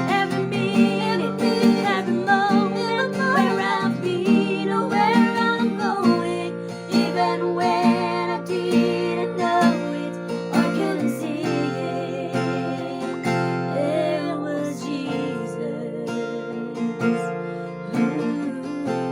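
Acoustic guitar strumming chords, with a wavering melody line carried over it.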